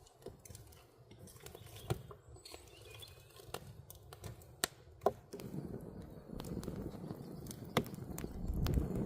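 Scattered sharp clicks and knocks, a couple of them louder about halfway through, over a low outdoor background that grows louder soon after.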